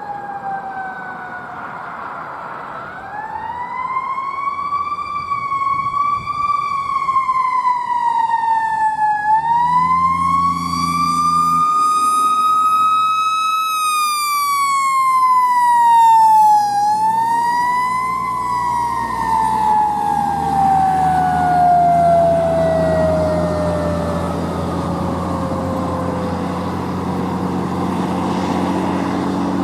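Fire engine siren wailing, climbing and falling in pitch several times, then winding slowly down over several seconds near the end. A truck's engine runs low beneath it in the second half.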